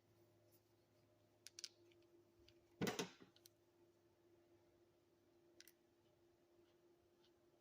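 Faint clicks and one short knock of tools being handled, with the louder knock about three seconds in, over a faint steady hum.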